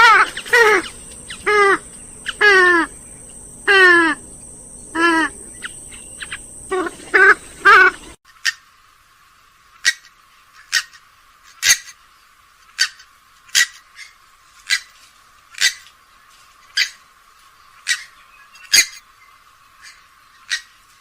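Grey-headed swamphen calling: a run of loud nasal calls, each sliding down in pitch, repeated every second or so. About eight seconds in, the sound switches abruptly to short, sharp call notes about once a second, with the low end cut away.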